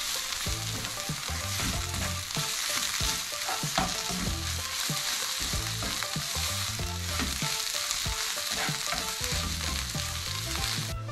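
Chopped onions frying in oil in a stone-coated nonstick frying pan, sizzling steadily while a plastic spatula stirs and scrapes them around the pan. The sizzle cuts off abruptly at the very end.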